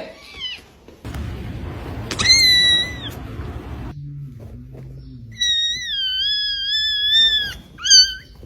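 An animal's high-pitched cries: a short one about two seconds in, then a long, wavering one of about two seconds, and a brief one near the end.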